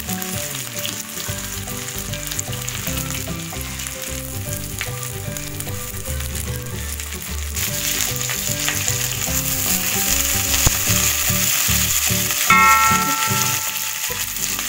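Whole spices, ginger, garlic cloves and green chillies frying and being stirred in hot sunflower oil in an aluminium kadai: a steady sizzle that grows louder from about halfway through, as the green chillies go in. A brief ringing tone sounds about three-quarters of the way through.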